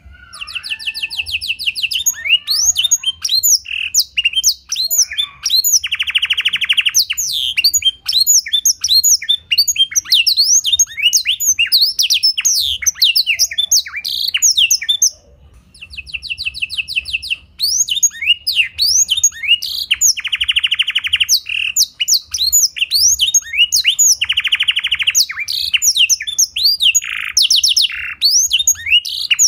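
Domestic canary singing a song filled with black-throated canary (blackthroat) phrases: fast chirps and rapid trills, with several longer rolled trills and a brief pause about halfway through.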